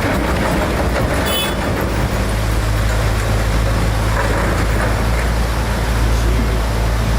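Heavy diesel engine running steadily, with a brief high squeal a little over a second in.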